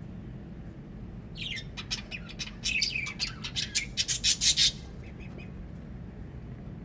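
Pet parrots squawking and chattering in a burst of rapid, harsh calls starting about a second and a half in. The calls are loudest just before they stop, nearly five seconds in.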